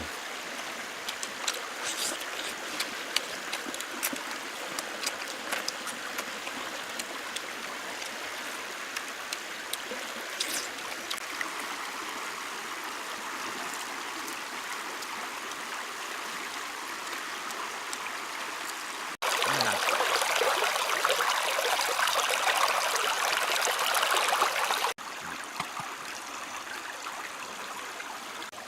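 Stream water flowing steadily, with scattered small clicks and splashes. Partway through it cuts suddenly to a louder rush of water for several seconds, then drops back just as suddenly.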